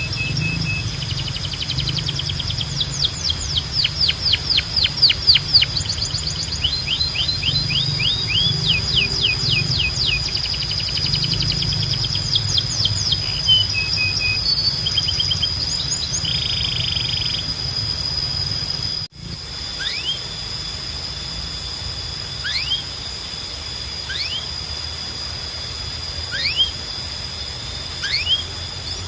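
Canary singing: fast trills of repeated sweeping notes and rolls, over a low hum. About 19 s in, the recording cuts to sparser single rising chirps a couple of seconds apart.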